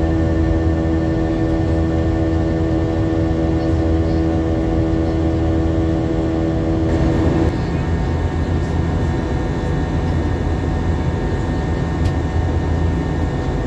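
Inside the cabin of an Airbus A321-200 jet airliner in flight: steady jet engine drone with a low hum and airflow rush. A set of whining engine tones drops away about halfway through, leaving the rushing noise.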